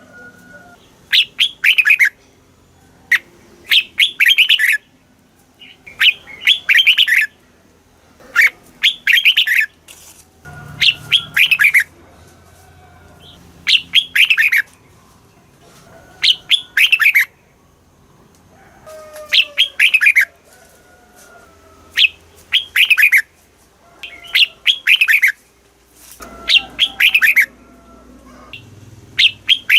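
Red-whiskered bulbul singing: short, bright, warbled phrases of quick falling notes, repeated about every two seconds.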